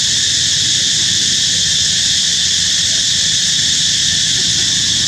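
A steady, high-pitched insect chorus, with a continuous shrill drone that doesn't let up, over a low background rumble.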